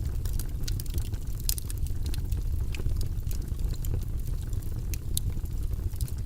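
Wood fire crackling in a fireplace: many short, sharp pops and snaps at irregular intervals over a steady low rumble.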